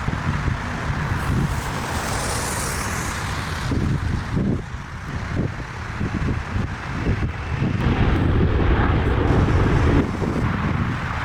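Airliner taking off close by: a heavy, steady rumble of jet engines with wind buffeting the microphone, swelling louder about eight seconds in.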